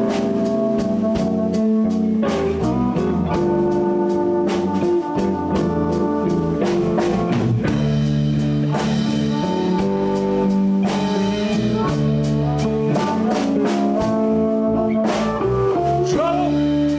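Live blues band playing a slow blues in D with no vocals: electric guitar over bass and a drum kit keeping a steady beat.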